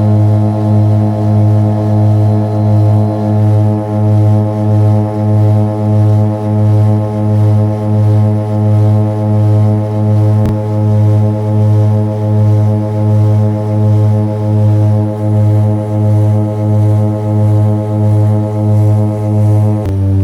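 Seaplane's propeller engines running with a steady, loud drone that pulses in loudness about once a second. The pitch shifts slightly lower near the end.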